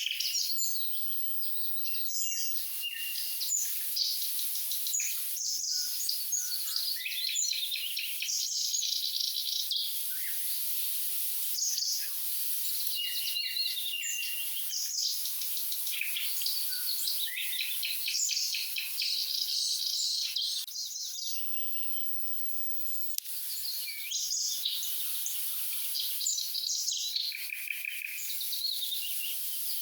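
Thrush nightingale singing: a run of quick phrases made of dry clicks, rattling trills and pure whistled notes, with a short pause about two-thirds of the way through.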